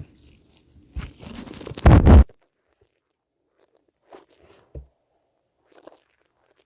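Handling noise at a workbench: a scraping, crackling rustle that builds to a loud, brief rub about two seconds in, then a few small taps and clicks.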